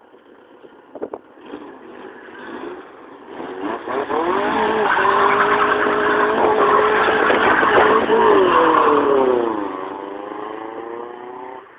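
Vauxhall Corsa SRi driving past at speed: the engine note grows louder as it approaches, holds steady at high revs, then drops in pitch and fades away as the car passes.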